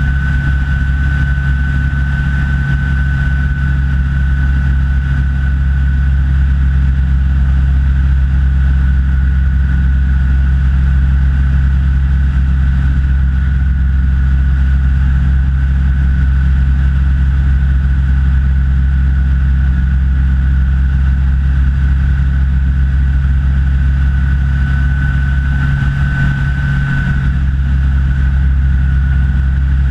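Rans S6 light aircraft's engine and propeller droning steadily in flight, with a steady high-pitched whine over the low drone.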